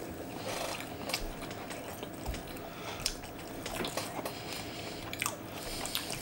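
People chewing and biting into greasy bacon ranch fries, with many small scattered mouth clicks and wet smacks.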